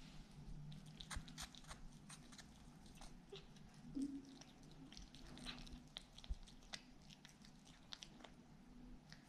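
Faint, irregular crunching clicks, like an animal chewing, with a short low sound about four seconds in.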